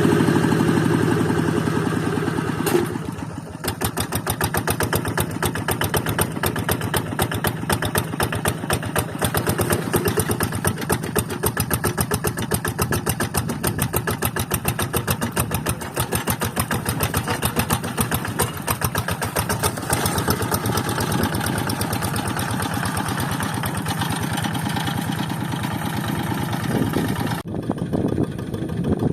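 Quick Zeva G3000 hand tractor's Kubota single-cylinder diesel engine running with a rapid, even firing beat. It is louder for the first few seconds, then settles to a steady working note. The sound shifts abruptly near the end.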